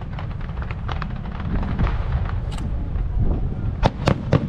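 Aerial fireworks going off: a continuous low rumble of shell bursts with scattered crackling, then three sharp, loud bangs close together near the end.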